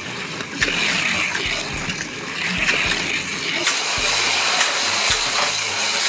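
Two Hot Wheels slot cars racing around a plastic track: small electric motors whirring steadily at speed, with repeated clicks and knocks from the cars running over the track.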